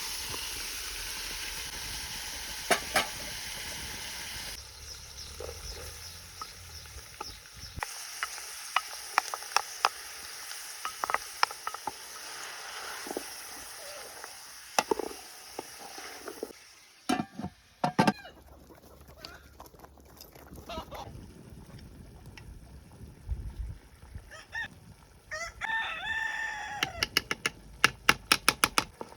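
A rooster crows near the end, over a steady hiss for the first half and scattered sharp clicks and knocks, with a quick run of clicks just before the end.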